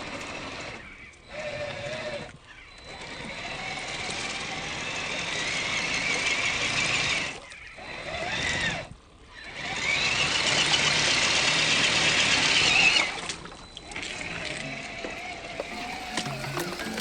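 Electric motor and drivetrain of a Redcat Gen8 RC scale crawler whining under throttle. The pitch rises and falls with the throttle and is loudest near the end, and the sound drops out abruptly several times.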